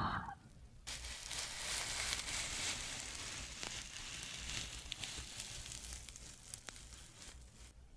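Crackling fire: a steady hiss dotted with small irregular pops and snaps, fading out near the end.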